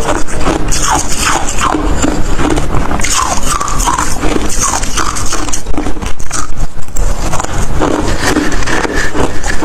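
A person chewing hard ice with dense, continuous crunching and crackling. Short squeaky creaks are mixed in with the crunches.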